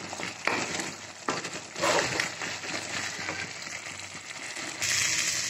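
Thick pumpkin curry sizzling in a metal kadai over a high flame, being fried until the oil separates, while a wooden spatula scrapes and knocks against the pan as it is stirred. There are a few knocks in the first two seconds, and the sizzling hiss gets louder near the end.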